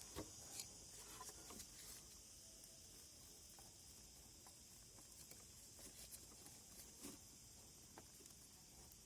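Near silence: a faint steady hiss with scattered light clicks and handling noises.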